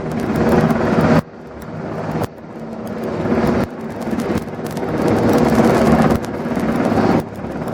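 Steady engine hum under rushing wind noise, broken by about six abrupt cuts, each stretch swelling louder before the next cut.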